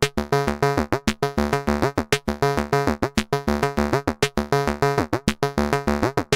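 Make Noise DPO oscillator, stepped by a Make Noise René sequencer, playing fast, evenly spaced synth notes, about six a second, each starting sharply and dying away under an Ardcore envelope through a VCA, some with a quick pitch sweep, with added delay.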